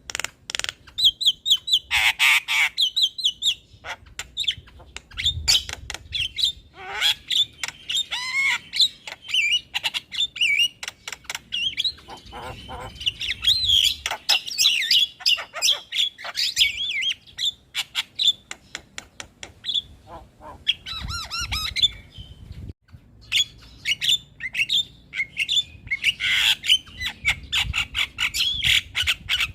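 Javan myna singing in a fast, unbroken chatter of whistled notes, clicks and harsh squawks.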